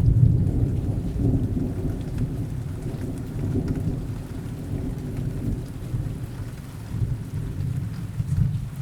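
Thunderstorm: steady rain with a long, low rumble of thunder that is loudest at the start, slowly dies away, and swells briefly again near the end.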